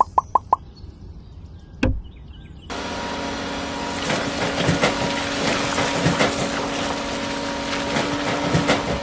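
A fast series of beeps, about five a second, stops just after the start, then a single knock. From about three seconds in, a motor-driven machine runs steadily: a hum of held tones under a gritty, scraping noise.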